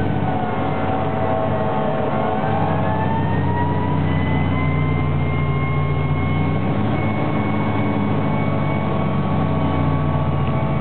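Fire engine running on an emergency response: its engine drones steadily under load while its siren falls in pitch, rises again over the first few seconds, then holds a steady high wail.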